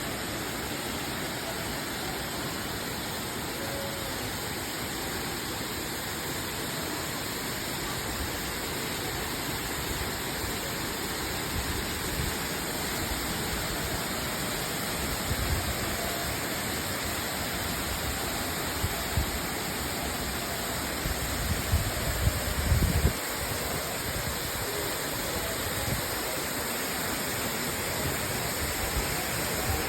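Waterfall rushing in a steady, even roar of falling water, with a few brief low rumbling thumps about halfway and again about two-thirds of the way through.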